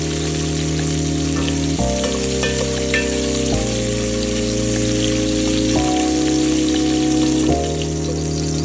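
Sliced red bell peppers sizzling in hot oil in a stainless steel pot as they are stirred with a wooden spoon. Background music of held chords plays under it, changing about every two seconds.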